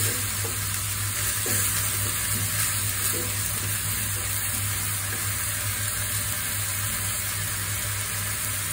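Chopped fenugreek (methi) leaves sizzling steadily as they sauté in a nonstick pan, stirred and pushed around with a wooden spatula, with a steady low hum underneath.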